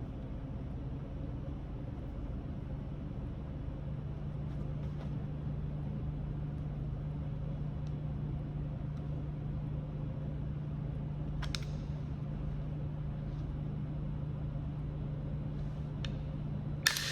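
A few sharp clicks of Kentucky hornstone being knapped, the loudest just before the end, each ringing briefly. Under them runs a steady low hum and rumble.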